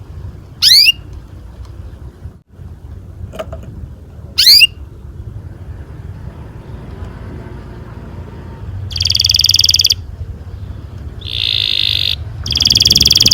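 Domestic canary singing. There are two short, sharp sweeping calls in the first few seconds, then, from about nine seconds in, rapid rolling trills in bursts of about a second, over a steady low hum.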